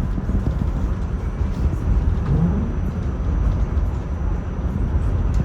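R46 subway train running between stations on elevated track, a steady low rumble of wheels and traction motors.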